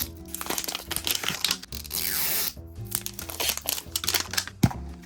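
Plastic wrapping crinkling and tearing in irregular crackles, the sound of a Mini Brands capsule ball and its wrapped miniatures being opened by hand. Steady background music plays under it.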